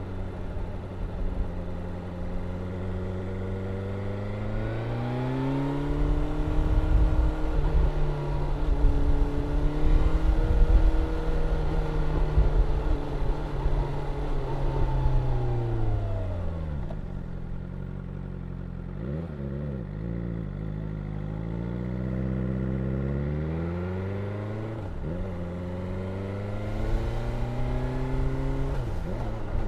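BMW S1000R inline-four engine and exhaust under way: the engine note rises about four seconds in and holds high, with heavy wind rush, then drops back past the middle, gives a couple of short throttle blips, and rises and falls again near the end.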